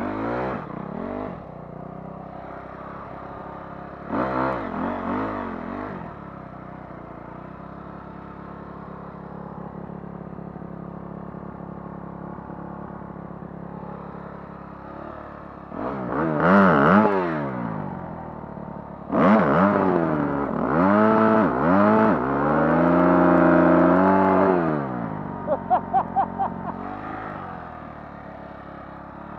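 Dirt bike engine revving on a motocross track, its pitch climbing and dropping again and again as the throttle opens and the gears change, with a quieter steady stretch in the middle. A quick run of about six short throttle blips comes near the end.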